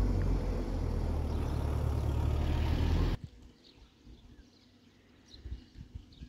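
A vehicle's engine running with a loud, steady low rumble that cuts off abruptly about three seconds in, leaving quiet outdoor ambience with faint bird chirps.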